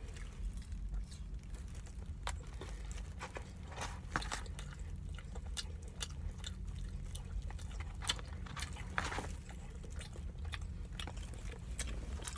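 Close-miked chewing and lip-smacking on rotisserie chicken: irregular, wet mouth clicks, with no words.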